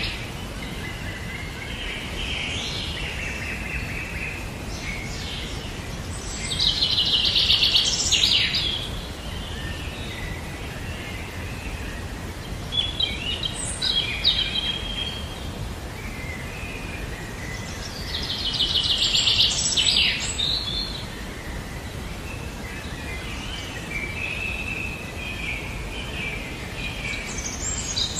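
Wild birdsong: a bird repeats a loud, rapid trilled phrase about every eleven seconds, with softer chirps from other birds between them, over a steady background hiss.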